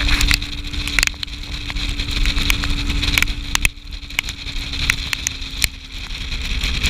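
Motorboat engine running steadily at speed, with a constant hum under a rough rushing noise and many sharp knocks.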